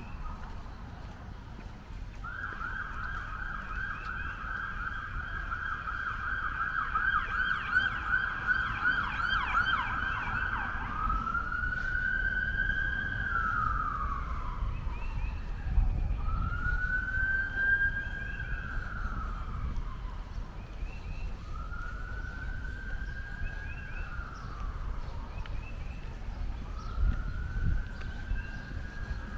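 Emergency vehicle siren sounding a fast yelp, with a second, faster warble overlapping it for a few seconds. About eleven seconds in it switches to a slow wail that rises and falls roughly every five seconds.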